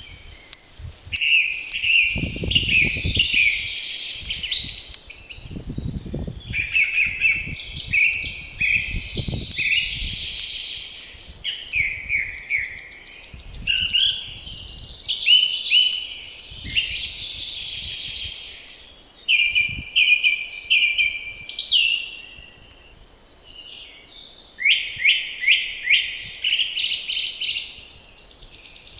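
Several songbirds singing in a spring chorus, with overlapping trills and repeated phrases that hardly pause. Low gusts of wind rumble on the microphone in the first ten seconds.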